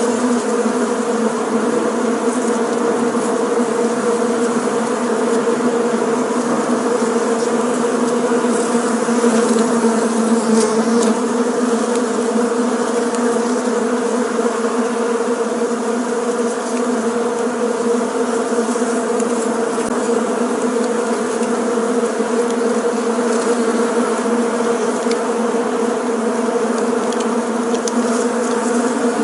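Bees buzzing in flight, many together: a steady, even drone that holds its pitch throughout.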